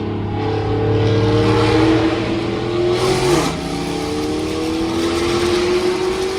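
Straight-piped Chevrolet Camaro ZL1's supercharged V8 accelerating hard, its pitch climbing; it drops sharply on an upshift about three and a half seconds in, then climbs again.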